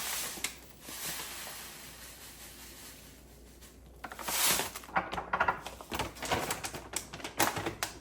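Sugar being measured out into a cup: a soft pouring hiss that fades over the first couple of seconds, then a busy run of clicks, knocks and rustling from handling the bag and measuring cup.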